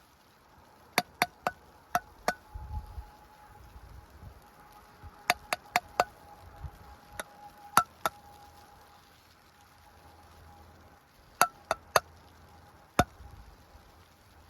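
Sharp wooden-sounding taps and knocks in three short clusters, about sixteen in all, with quiet gaps between the clusters.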